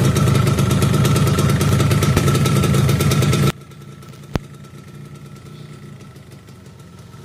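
Yamaha RZR 135's air-cooled two-stroke single-cylinder engine idling loudly just after being started, with a rapid, even pulsing. About three and a half seconds in the sound drops abruptly to a much quieter steady running, with a single sharp click a little later.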